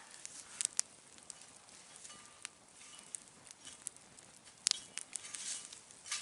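Wood campfire crackling, with irregular sharp pops (the strongest about 4.7 seconds in) and short hisses between them.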